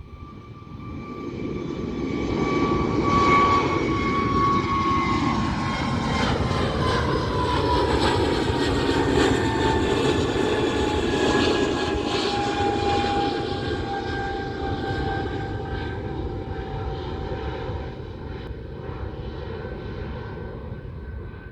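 Airbus A320neo's jet engines at takeoff power as the airliner passes. A heavy rumble builds over the first few seconds, carrying a whine that slowly falls in pitch, then gradually fades.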